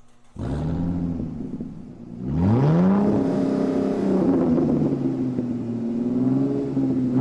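Supercar engine bursting into sound about half a second in and idling briefly, then revving sharply about two seconds in and held at high revs, the pitch wavering slightly.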